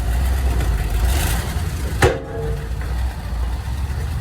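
Heavy vehicle engine running steadily with a low rumble. A single sharp knock comes about halfway through, with a brief ring after it.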